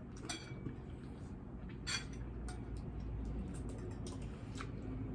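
A few scattered light clinks and taps of tableware, dishes, glass and cutlery, during a meal, over a low steady background hum. The clearest click comes about two seconds in.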